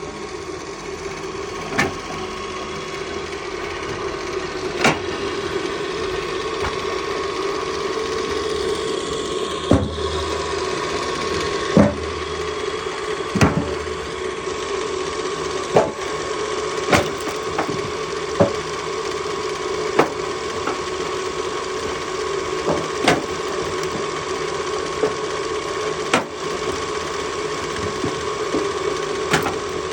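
Motor-driven firewood splitter running with a steady hum, with sharp wooden cracks every one to three seconds as logs split. A few heavier thuds come around the middle.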